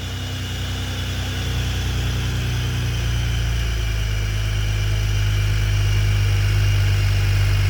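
BMW 335i's N54 twin-turbo inline-six idling steadily on its first start after a turbo upgrade and overhaul, growing slightly louder over the few seconds.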